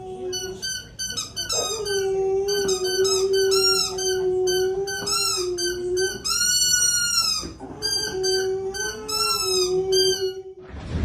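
Dog howling in long, steady held notes, with a fast run of short high-pitched warbling notes over it; both cut off suddenly near the end.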